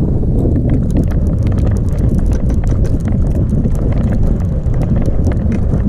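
Wind buffeting the microphone as a steady low rumble, with many irregular sharp clicks and ticks over it.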